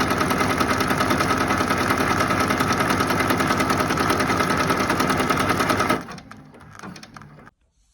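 Embroidery machine stitching at speed with a fast, even mechanical rhythm. It stops abruptly about six seconds in as the embroidery finishes, leaving only faint handling sounds.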